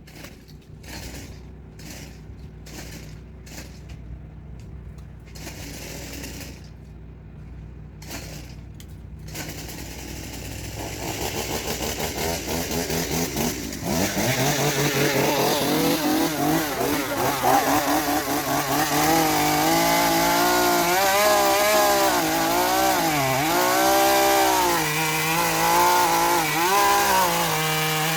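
A chainsaw runs after a series of sharp clicks, getting loud about fourteen seconds in, its engine speed rising and falling repeatedly as if revved or working under load.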